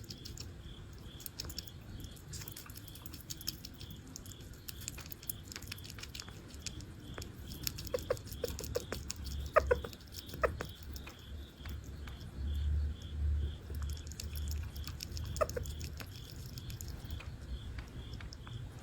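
Sugar glider nibbling a snack: a run of fine, crisp chewing clicks, with a few short chirps about halfway through and low muffled bumps a little later. A faint pulsing tone, about two pulses a second, runs underneath.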